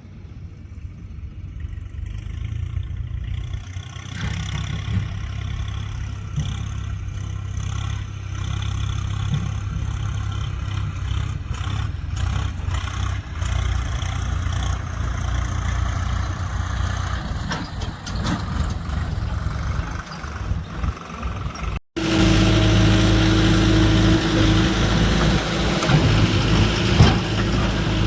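Diesel engine of tractor or loading machinery running steadily. About 22 seconds in, a cut brings a louder, closer engine with a steadier hum.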